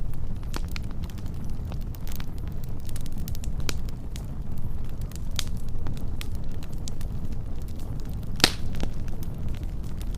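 Wood fire crackling: scattered sharp pops and snaps over a steady low rumble, with one louder pop about eight and a half seconds in.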